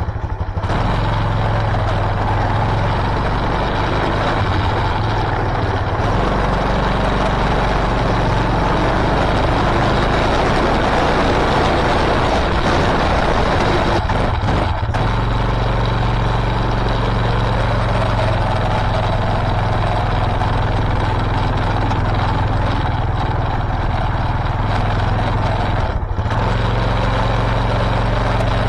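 White LT 946G lawn tractor engine, unrun for over 15 years, being turned over by its starter without catching, a steady low mechanical hum. Brief breaks come about six, fourteen and twenty-six seconds in.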